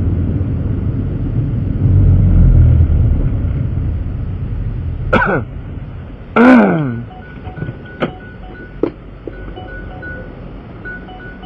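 Vehicle engine and road rumble while driving, then two loud tones sliding downward in pitch about a second apart, followed by a pattern of short repeated electronic beeps at two pitches.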